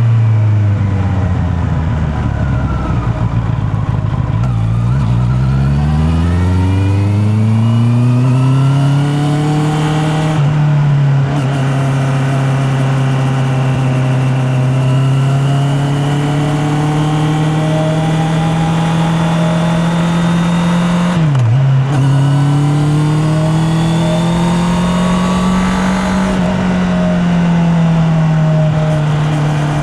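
Honda CB650R's inline-four engine under way: the revs fall for the first few seconds, then climb steadily until about ten seconds in, and settle into a steady cruising note. The note breaks briefly about ten seconds in and again near twenty-one seconds, as at a gear change.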